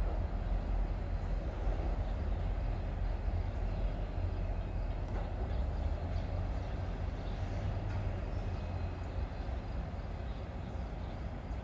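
Distant train on the tracks, a steady low rumble.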